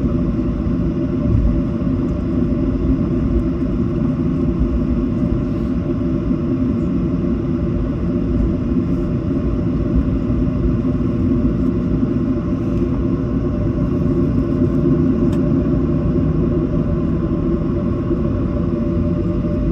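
Steady rumble and hum inside the cabin of a Boeing 737 on the ground after landing, even in level throughout with no change.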